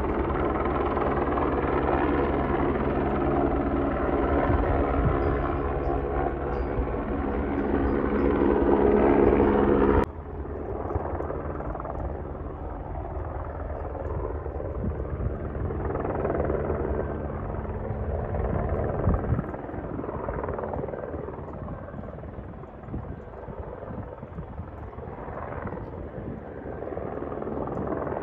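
Airbus H125 single-turbine helicopter flying over: steady rotor and turbine noise that grows louder over the first ten seconds, then drops suddenly to a fainter, more distant helicopter sound that swells and fades.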